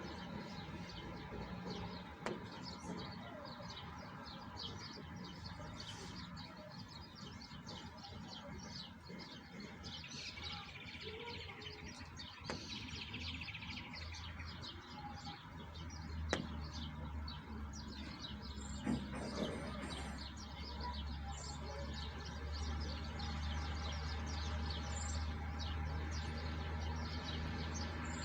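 Small birds chirping over and over, many short calls overlapping, with a low steady hum coming in about halfway through.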